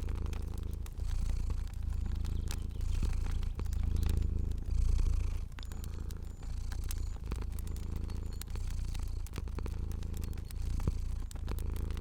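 Domestic cat purring, a deep rumble that swells and fades about once a second with each breath, over a crackling fire with scattered small pops.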